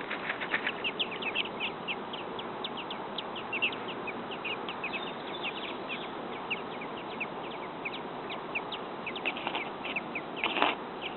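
Robin nestlings a few days old giving begging calls: a fast, unbroken stream of short, high chirps. A brief louder sound comes near the end.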